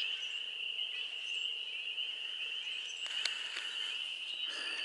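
A chorus of frogs calling at a breeding pond, merged into one steady, high-pitched trill. A brief click comes about three seconds in.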